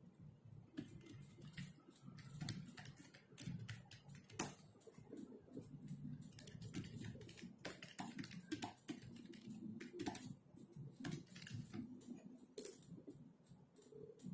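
Typing on a computer keyboard: an irregular run of soft keystroke clicks, starting about a second in, with short pauses between bursts.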